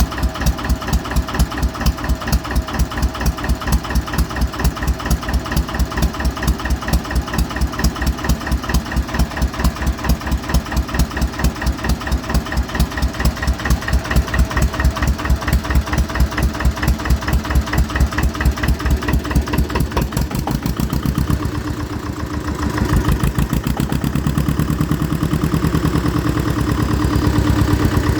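Lister Petter PH2 two-cylinder diesel being turned over by its dynastart on a cold start below freezing, with a slow, even beat of about four to five a second. About 21 seconds in it catches and settles into a steadier running note.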